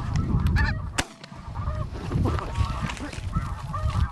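A flock of snow geese calling, with many overlapping short high honks repeating steadily, over a low rumble on the microphone. A single sharp click comes about a second in.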